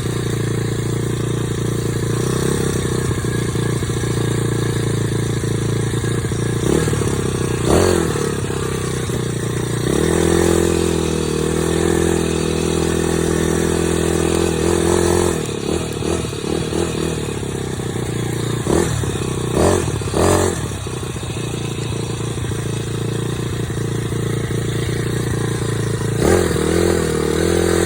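Dirt bike engine running on a ride, its pitch rising and falling with the throttle, with a few brief sharp rev blips.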